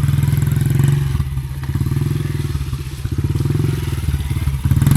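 Small dirt bike engine running under throttle as the rider gives it gas to spin a donut. The revs ease off about a second in and again around three seconds, then pick back up near the end.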